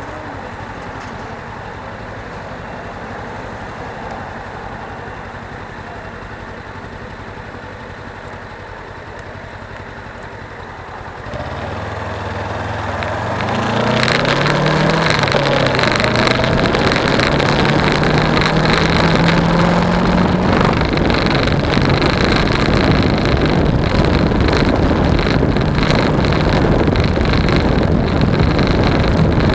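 Suzuki V-Strom 250 motorcycle's parallel-twin engine running quietly for about the first eleven seconds, then pulling away and accelerating: the engine note rises, drops at a gear change and rises again. Loud wind noise on the camera from about fourteen seconds in.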